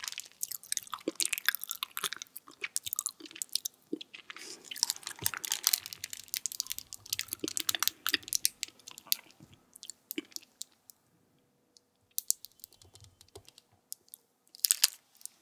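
Close-miked chewing of soft, sticky honey jelly, with dense wet clicks and smacks that thin out about two-thirds of the way through. Near the end comes a louder cluster of squishing crackles as the plastic squeeze bottle is squeezed and more jelly is pushed out.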